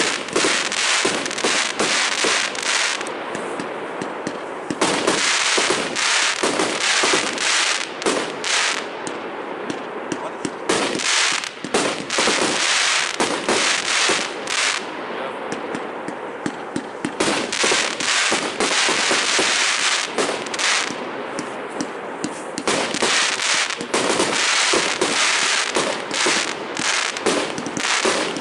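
Fireworks being set off: a continuous, rapid barrage of bangs and crackling, with stretches where dense crackle fills in between the bangs.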